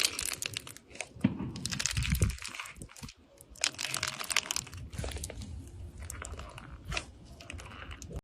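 Irregular crunching and crinkling: a dense run of short crackles and clicks, louder in clusters around the first, third and fourth seconds.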